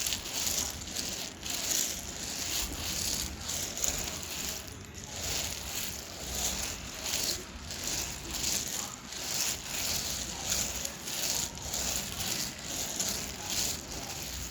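Dry clay being crunched close to the microphone: repeated crisp crunches, a little over one a second.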